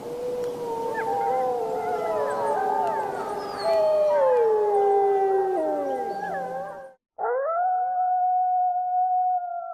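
A pack of wolves howling in chorus, several long, overlapping howls wavering and sliding down in pitch. About seven seconds in the sound cuts off abruptly and a single wolf howl begins, rising and then holding a steady pitch.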